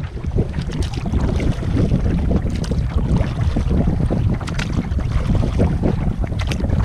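Wind buffeting the microphone in a rough, continuous rumble, with water splashing and lapping around a canoe being paddled.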